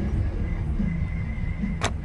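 A car's low, steady engine and road rumble, with a single sharp click near the end.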